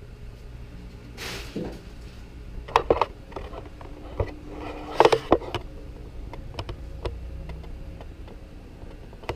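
Handling noises: a brief rustle about a second in, then a few sharp knocks and clacks around three and five seconds in, over a steady low hum.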